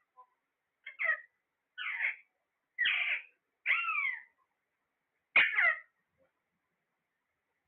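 A parrot calling: five short calls roughly a second apart, some gliding down in pitch, with a slightly longer gap before the last one.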